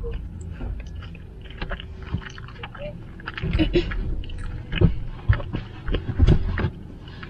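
Close chewing and lip-smacking: a person eating animal-style fries with her fingers and licking them, with irregular wet mouth clicks that come thicker and louder in the second half.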